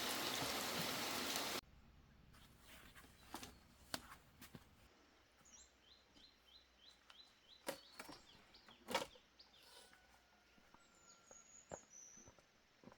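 A steady rushing noise cuts off abruptly about a second and a half in. Then comes quiet outdoor ambience with a few scattered sharp knocks and a small bird chirping a quick run of short notes, about five a second.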